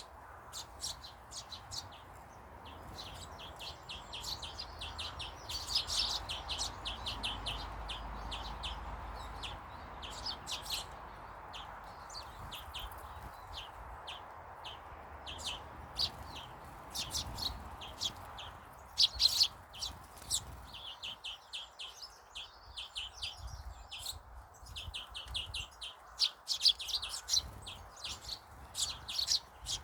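Small birds chirping in quick, repeated bursts of short high notes, several at once, with a faint steady background hum.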